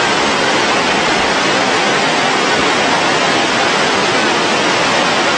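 Loud floodwater rushing steadily, a constant even wash of water noise with no breaks.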